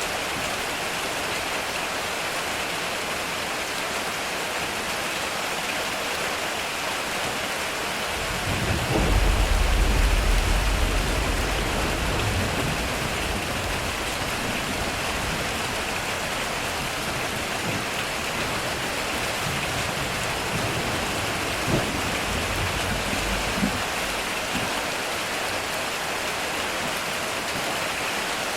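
Heavy rain hissing steadily on a metal roof. About eight seconds in, a loud rolling thunderclap swells into a deep rumble that slowly dies away, with a couple of sharp cracks late in its fade.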